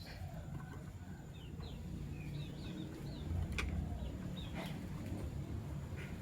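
Fischer's lovebirds chirping in short, scattered high calls, with a couple of sharp clicks about three and a half and four and a half seconds in, over a steady low rumble.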